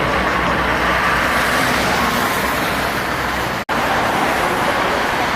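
Busy road traffic, trucks and cars passing with steady tyre and engine noise. It cuts out for an instant about three and a half seconds in.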